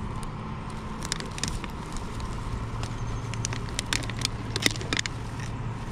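Vehicle running on the road, a steady low hum and road noise, with many scattered sharp clicks and rattles.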